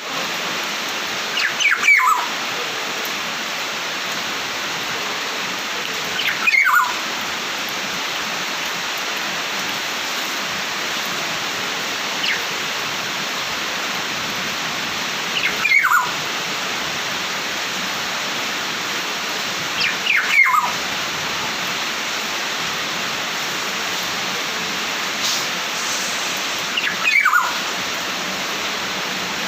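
A songbird giving a short call that sweeps downward in pitch, repeated six or seven times at gaps of about four to five seconds, over a steady hiss like running water.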